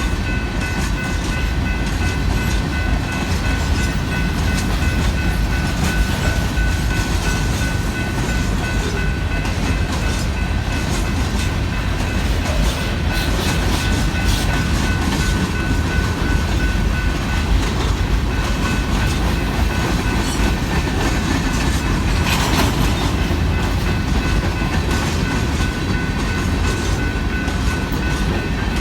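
Freight cars of a limestone train rolling steadily past, a continuous heavy rumble with the clickety-clack of wheels over the rails. A thin, steady high-pitched ringing runs above it.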